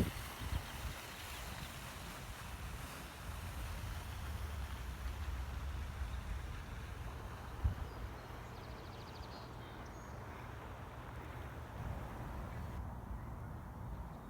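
Low, uneven rumble of wind buffeting the microphone, with a short, faint high-pitched bird trill about nine seconds in.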